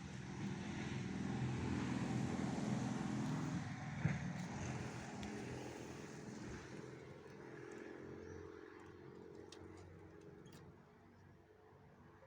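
A passing motor vehicle: a low engine and road noise that swells over the first few seconds and then fades away, with a few faint ticks near the end.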